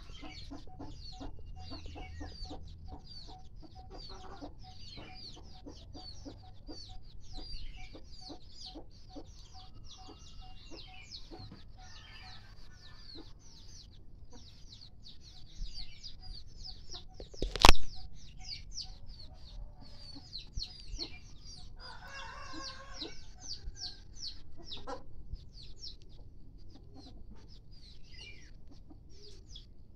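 Village chickens clucking, with many short high chirps throughout and one sharp knock about eighteen seconds in.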